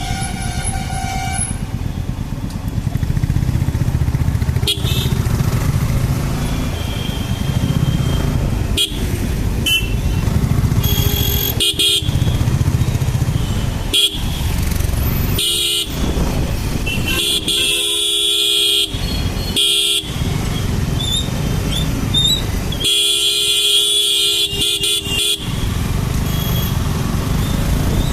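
Motorcycle running along the road in traffic, with vehicle horns honking several times, longest a little past the middle and again later on.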